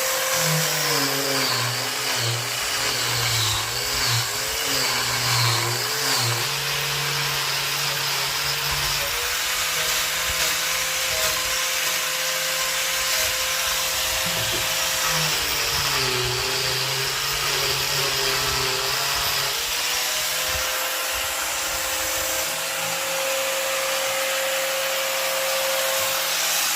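Electric power tool running on wood, a steady motor whine whose pitch sags and wavers under load in the first few seconds and again about midway.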